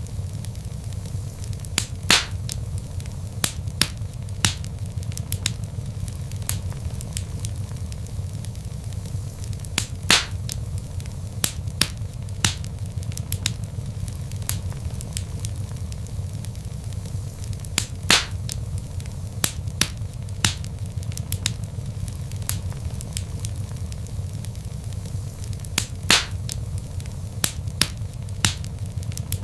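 Log fire crackling in a fireplace: a steady low rumble from the burning wood, with frequent small sharp crackles and a louder pop about every eight seconds.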